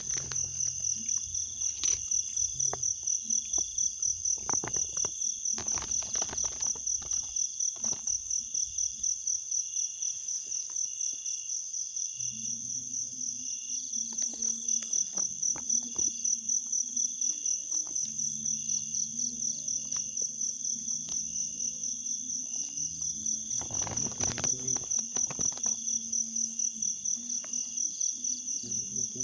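Chorus of insects, most likely crickets, trilling steadily with a fast, high-pitched pulse. A few brief rustling or splashing noises come through, most clearly about five to seven seconds in and again near twenty-four seconds.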